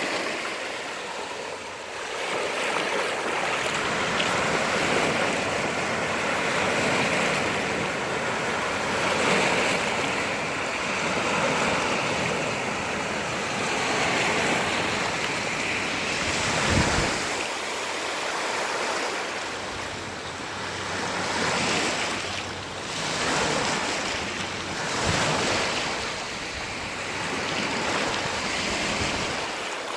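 Sea waves breaking and washing on the shore, the surf swelling and ebbing every few seconds, with wind on the microphone and a brief low buffet about halfway through.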